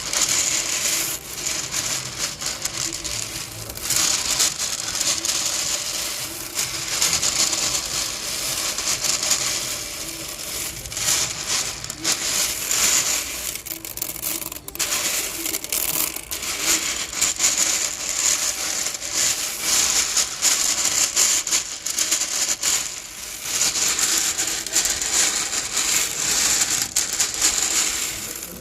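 Hands stirring and rubbing through a pile of small pearl beads for slime, giving a continuous dense clatter of tiny clicks that swells and eases in waves.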